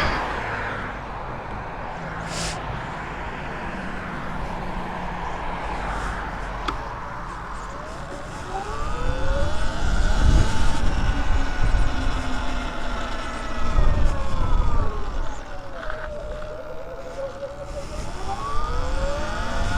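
Sur-Ron Light Bee X electric dirt bike's motor whining. Its pitch rises as the bike speeds up about eight seconds in, holds, drops around sixteen seconds in, then climbs again near the end. Low wind rumble on the camera microphone runs under it.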